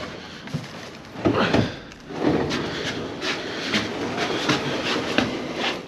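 Furniture being handled and shifted: irregular knocks, clatter and scraping, with a louder burst about a second in.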